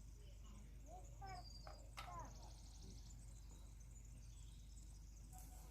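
Near silence with faint bird calls: short chirps gliding in pitch and a high trill, between about one and two and a half seconds in, and a single faint click at about two seconds.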